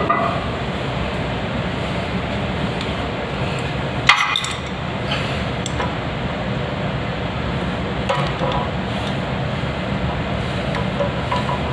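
Hand tools clinking and knocking during plumbing work, with one sharp metallic clink about four seconds in and a few lighter clicks later, over a steady background hiss.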